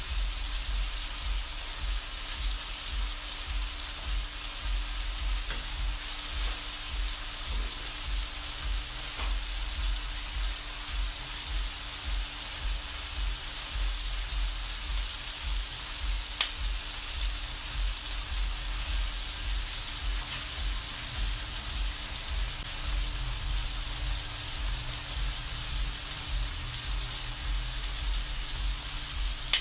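Diced raw chicken breast frying in oil in a non-stick pan: a steady sizzle as it is stirred with a slotted metal spatula, with a soft low knocking about once a second and one sharp click about halfway.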